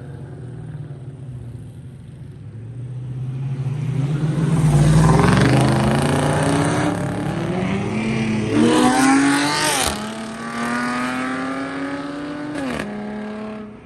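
A muscle car's engine accelerating hard away, loudest about five seconds in. Its pitch climbs and drops back at each of several gear shifts.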